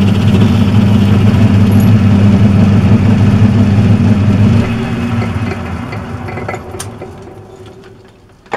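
Metalworking lathe running steadily with a strong motor hum, then switched off about four and a half seconds in and winding down over the next few seconds.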